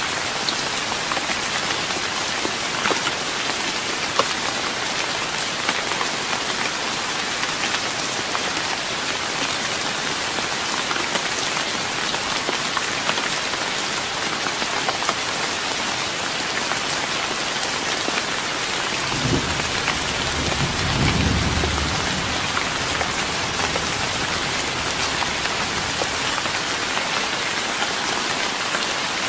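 Steady rain pattering on a wooden deck, with many small drip ticks. About two-thirds of the way through, a low rumble of thunder lasts a few seconds.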